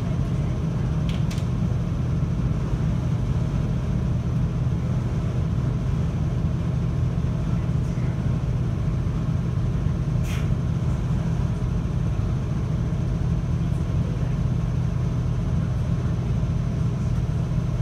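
Steady low hum of a JR Hokkaido 721 series electric train, heard from inside the carriage, with two brief clicks, one at the start and one about ten seconds in.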